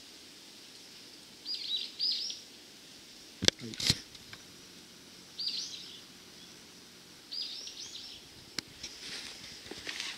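A small bird calling three times, each a short burst of quick high notes, over quiet woodland ambience. About three and a half seconds in come two sharp clicks, the loudest sounds; near the end, light footsteps and handling clicks as the camera starts moving.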